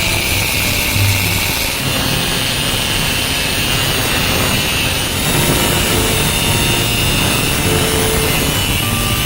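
Background music over a steady machine noise from power-tool work, with a high whine that shifts slightly in pitch about two seconds in.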